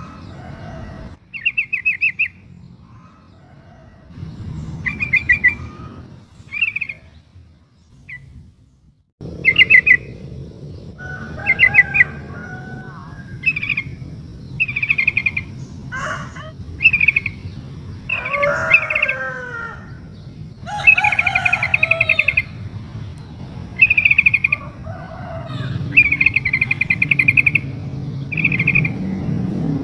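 Female yellow-vented bulbul (trucukan) giving short, rapid chattering trills, repeated every second or two, with some lower warbling phrases mixed in. These are the calls of a female calling for a male.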